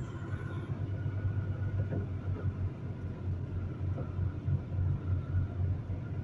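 Semi truck's diesel engine running at low speed as the rig creeps forward, a steady low rumble heard from inside the cab.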